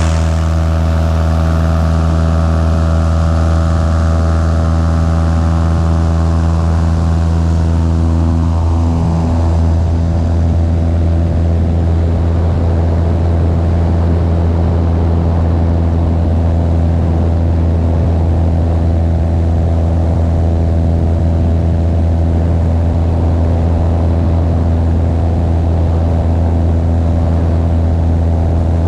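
Propeller aircraft engine running at takeoff power: a loud, steady drone at an unchanging pitch. The higher hiss above it fades out about eight to ten seconds in.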